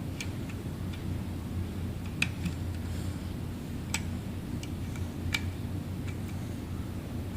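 Sharp clicks and taps of small hard objects, about six of them at irregular gaps of one to two seconds, over a steady low hum.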